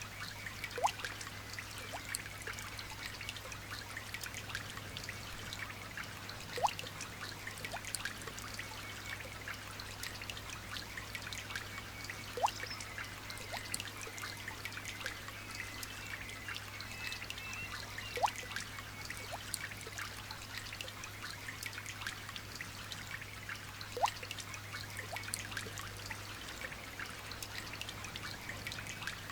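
Light rain dripping and trickling: a steady patter of small drops, with a louder single drop plopping about every six seconds.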